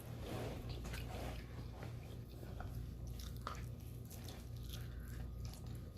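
A person biting into and chewing pepperoni and bacon pizza close to the microphone, with small mouth clicks, over a steady low hum.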